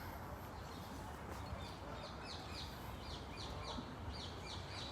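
A small songbird singing: a run of short, high, falling notes, about three a second, starting about a second and a half in, over a steady low background rumble.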